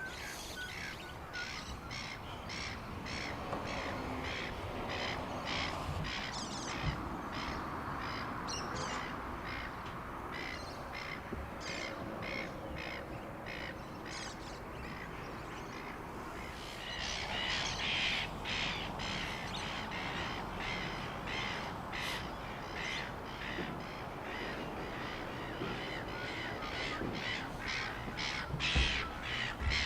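Many birds calling in a rapid, continuous run of short harsh calls, about two to three a second, growing louder a little past halfway.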